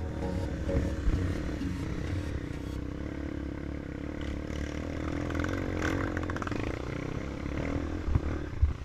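Dirt bike engine running at a fairly steady pitch, with a couple of sharp knocks near the end.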